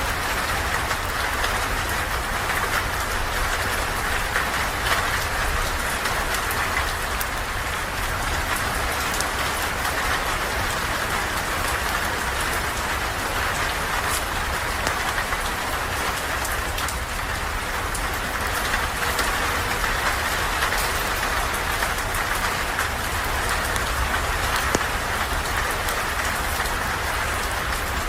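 Steady rain falling on a surface, an even hiss with a low rumble underneath and scattered faint clicks.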